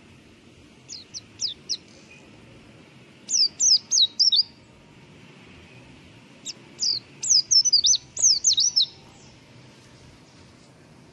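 Mountain white-eye singing in three bursts of quick, high, down-slurred notes, the last burst the longest and loudest, over a faint steady rush of river water.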